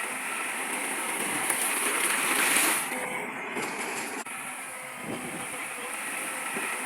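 Heavy earthmoving machinery at work: a steady, noisy machine sound that swells about two and a half seconds in, then briefly drops back.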